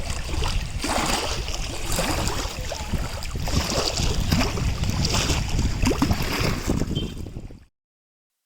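Outdoor ambience with wind buffeting the microphone, a steady rumbling noise with scattered faint background sounds, cutting off abruptly near the end.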